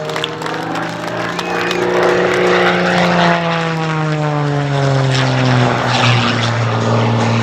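Propeller engine of Rob Holland's MXS-RH aerobatic monoplane running hard in flight. Its note rises a little, then falls steadily in pitch over several seconds and settles lower about six seconds in.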